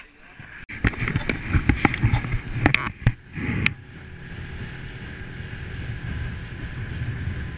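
Wind buffeting the microphone with several knocks and bumps in the first few seconds. After that a boat motor settles into a steady run under the wind noise, slowly getting louder.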